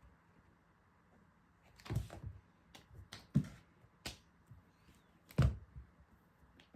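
Thumps and taps of a Norwegian Forest Cat kitten jumping and landing as it plays. Three louder thumps come about two, three and a half and five and a half seconds in, with lighter taps between them.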